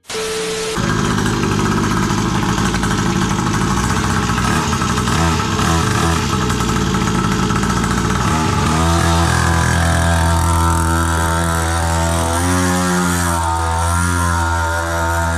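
Small 49cc two-stroke mini bike engine with dual exhaust pipes running during a road test; it cuts in just under a second in, and about eight and a half seconds in its note changes to a steadier, stronger pitch that rises and falls with the throttle.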